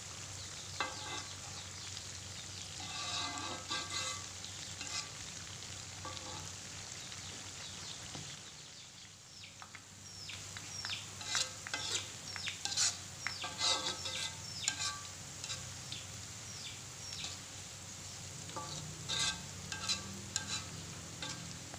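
Thinly sliced shallots deep-frying in hot oil in a metal wok, a steady sizzle, with a metal fork scraping and clinking against the wok as they are stirred. The stirring pauses briefly about halfway through.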